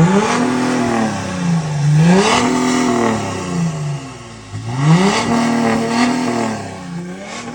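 Volkswagen Amarok's 3.0 V6 turbodiesel with a full aftermarket exhaust, revved while stationary three times: each time the engine climbs quickly, holds high for a moment, then drops back toward idle.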